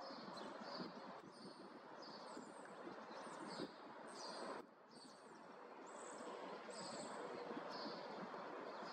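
Small birds chirping over and over, a short call about twice a second, some of them sliding down in pitch, over faint steady background noise.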